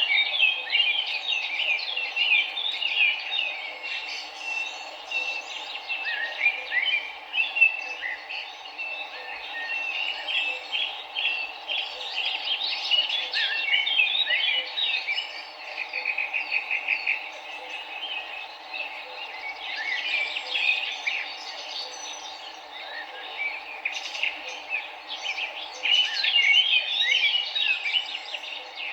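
Several small birds chirping and trilling busily, calls overlapping, over the steady rush of flowing river water.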